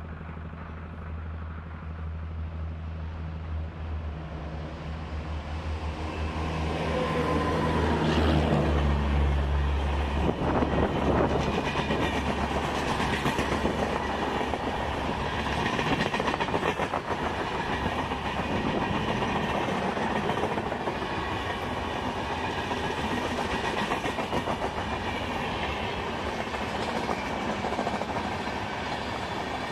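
Indian Railways express passenger train passing close by at speed. The locomotive's low hum builds as it approaches, then drops in pitch as it goes past about eight to ten seconds in. After it comes the steady rush of the passing coaches, with the wheels clicking over the rail joints.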